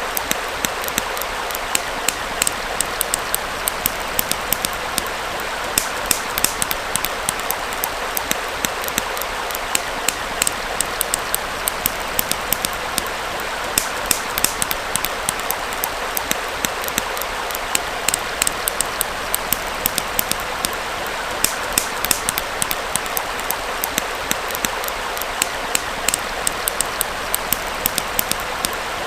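Small forest stream flowing steadily, with a campfire crackling over it in many sharp, irregular pops.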